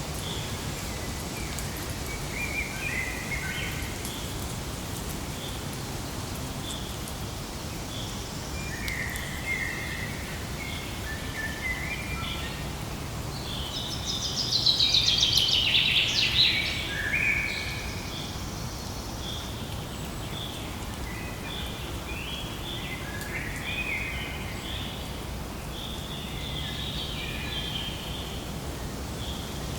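Many small birds chirping over and over, short calls scattered through, with a louder rapid burst of chattering calls about halfway through. A steady hiss sits under the birdsong.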